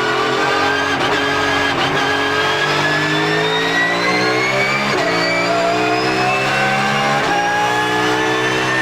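Porsche 911 GT3 Cup race car's flat-six under full acceleration, its pitch climbing steadily through each gear. It drops sharply at upshifts about five seconds in and again about seven seconds in.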